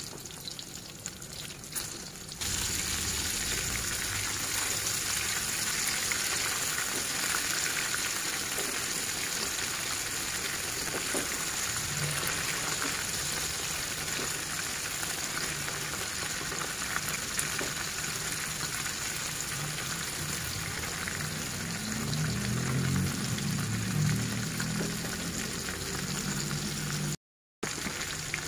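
Shrimp deep-frying in hot oil in a wok: a steady sizzle that steps up louder about two seconds in and breaks off for a moment near the end.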